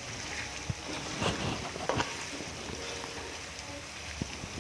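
Ground chili spice paste frying in oil in a wok, a steady sizzle, with a metal spoon scraping and clinking against the wok a few times as it is stirred.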